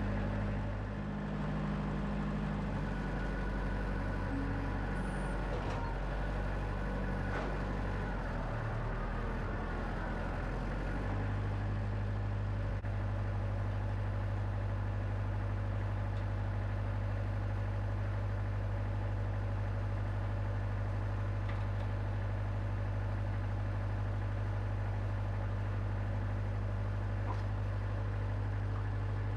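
Wood-Mizer LX25 sawmill's engine running, its pitch wavering for the first eleven seconds and then holding steady.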